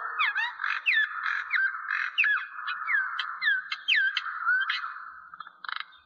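Bird calls: a run of short whistled notes, most falling sharply in pitch, about two a second, over a steady background chorus, fading out near the end.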